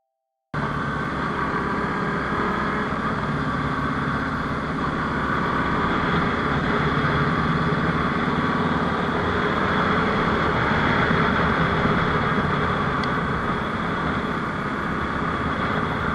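Motorcycle running at a steady speed with road and wind noise, cutting in abruptly about half a second in and holding level without revving.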